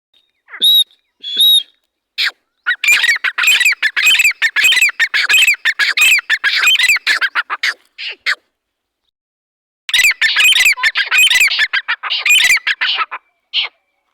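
Teetar (francolin) calling loudly: two short notes, then a long fast run of harsh, chattering notes, a pause of about two seconds, and a second run ending in a single note.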